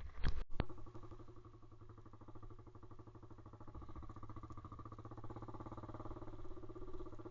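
Pit bike's single-cylinder engine running steadily at low, unchanging revs with a fast even chugging, growing slightly louder near the end. A sharp click comes just after the start.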